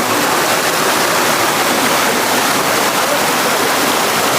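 Steady, loud rushing of a fast mountain river.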